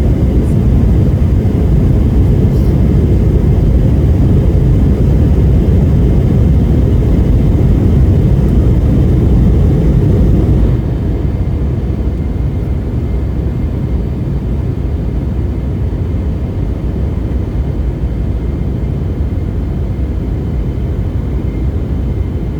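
Steady drone of an aircraft in flight, heavy in the low end, stepping down somewhat in level about halfway through.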